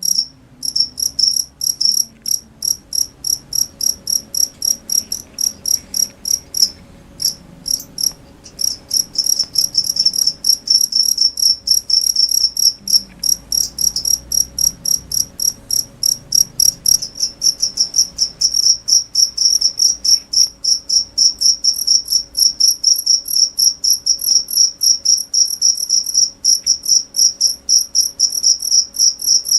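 A cricket chirping, a steady train of short high-pitched chirps at about three to four a second, which falter into a sparse, irregular stretch about seven seconds in before picking back up.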